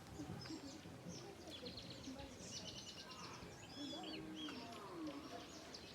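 Faint outdoor ambience of birds chirping and trilling, with faint distant voices.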